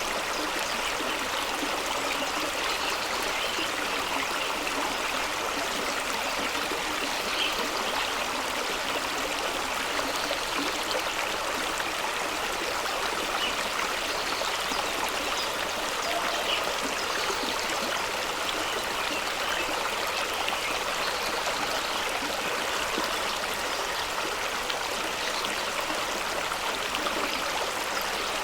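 Fast-flowing stream rushing over rocks, a steady splashing hiss of water with small gurgles.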